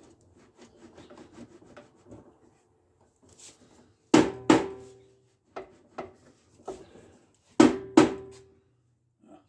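Hammer blows on metal during the front axle repair of a lawn mower: two pairs of sharp strikes about three seconds apart, each ringing briefly, with a few lighter taps between.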